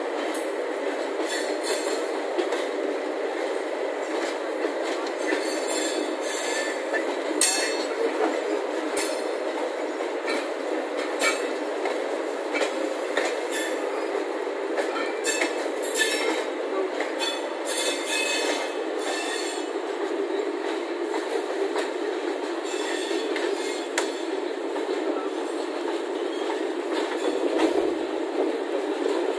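Express passenger train running on the track, a steady rolling noise under frequent sharp wheel squeals and clicks from rail joints, thickest in the middle stretch.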